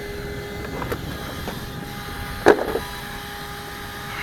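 A single sharp knock about two and a half seconds in, over a faint steady hum.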